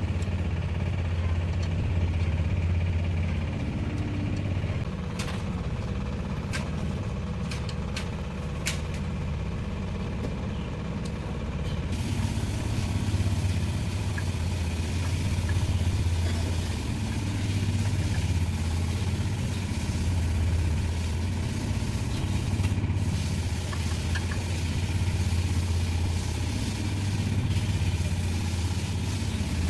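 Tractor engine running steadily with a low, slightly pulsing drone, and a few sharp clicks about five to nine seconds in.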